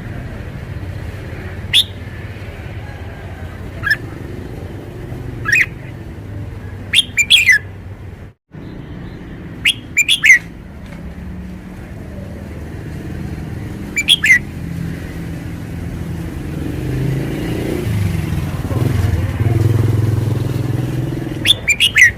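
Red-whiskered bulbul singing short, sharp whistled phrases, one every few seconds, some in quick pairs, over a steady low rumble of road traffic that grows louder near the end.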